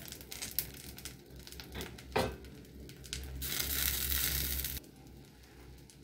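An egg omelette frying in oil in a kadai, sizzling with fine crackles throughout. A single knock comes about two seconds in, and a louder scraping rush from about three and a half seconds to nearly five as a spatula works under the omelette.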